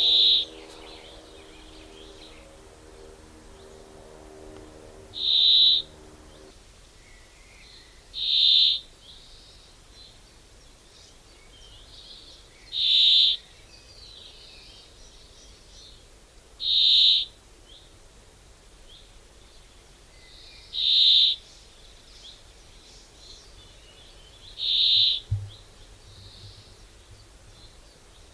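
A bird giving the same short, high call again and again, seven times, one every three to five seconds, over faint outdoor background noise. A low steady hum of several tones runs under the first six seconds or so and stops suddenly, and there is one brief low thump near the end.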